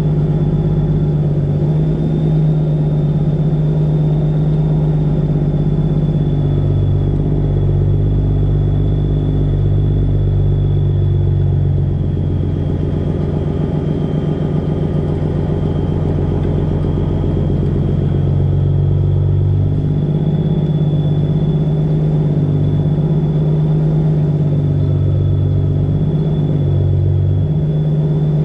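Semi truck's Detroit Diesel 12.7 engine running steadily under way, heard from inside the cab, with a thin steady high whine over the engine note.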